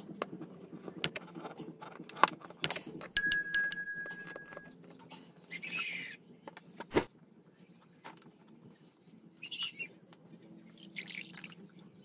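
Handling noises on a plastic ice cooler: clicks and knocks on the lid, a brief loud squeaky rub about three seconds in, and short scrapes as vinyl tubing is fed through the holes in the lid.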